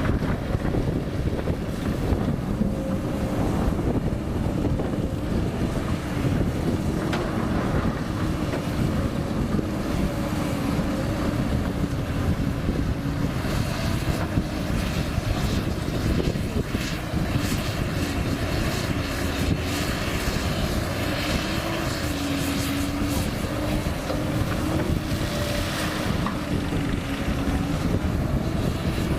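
Komatsu PC200 hydraulic excavator's diesel engine running steadily, its pitch sagging and recovering a little over and over as the machine works.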